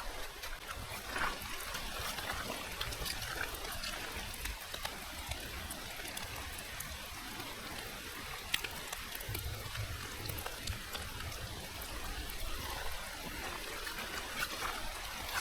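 Steady rain falling on forest foliage, with many scattered drips and patters.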